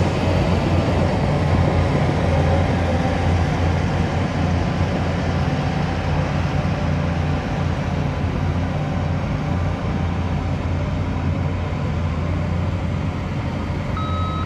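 Heavy diesel earthmoving machinery running steadily under load, with a reversing beeper starting near the end.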